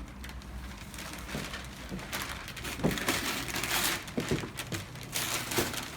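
Packaging being handled during unboxing, crinkling and rustling in irregular bursts, heaviest from about two to four seconds in and again near the end.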